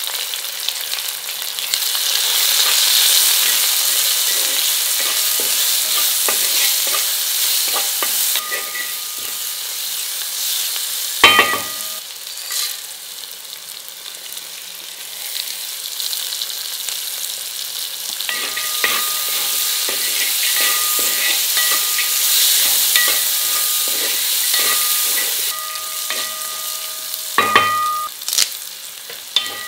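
Shallots frying and sizzling in oil in a metal kadai while a steel spoon stirs and scrapes the pan. A metal utensil clanks sharply against the kadai about eleven seconds in and again near the end, leaving a brief metallic ring.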